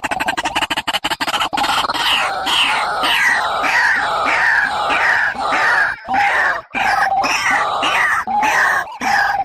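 Bird calls for luring birds into traps. A fast rattling run of notes gives way, about a second and a half in, to a series of harsh notes falling in pitch, about two a second.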